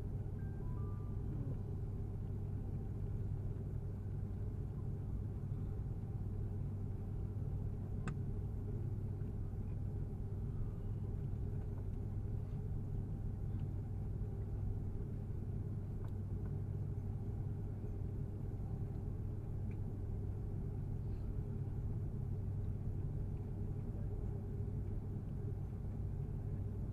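Steady low cabin rumble inside an Airbus A330-300 airliner rolling on the ground after landing, its engines at idle, with a single faint click about eight seconds in.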